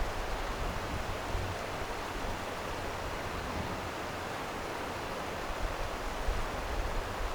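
Stream water flowing steadily, an even rushing with no break.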